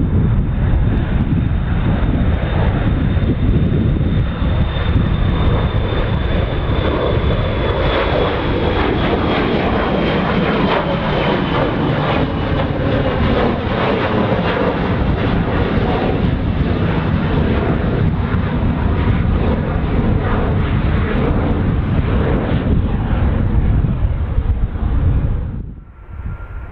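Jet airliner engines passing close, a loud roar with a high whine that slowly falls in pitch. The sound drops away suddenly near the end.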